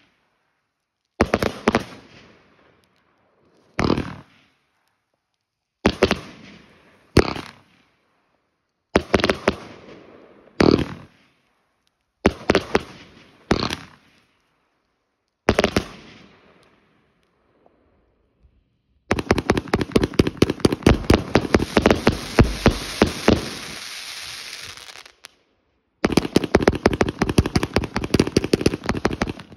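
Aerial fireworks going off. A string of single sharp bangs comes every second or two, each trailing off in crackle. After a short pause, two long volleys of rapid-fire pops follow in quick succession.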